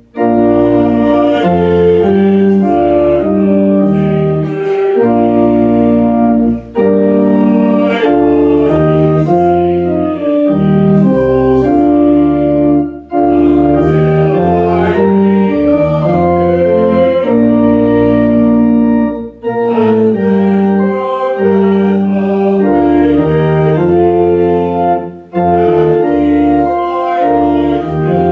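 Organ music: slow, sustained chords played in phrases, with a brief break between phrases about every six seconds.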